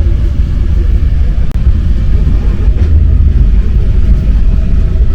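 Paris Métro MP 05 rubber-tyred train running, heard from on board: a loud, steady low rumble with a faint steady hum above it.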